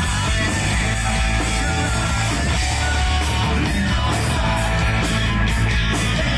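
A hard rock band playing live, with electric guitar over bass and a steady drum beat.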